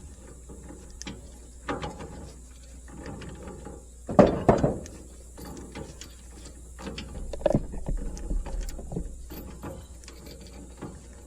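Metal clanking and rattling from the bush hog and hitch being worked with the skid steer, loudest about four seconds in, over a steady low engine hum.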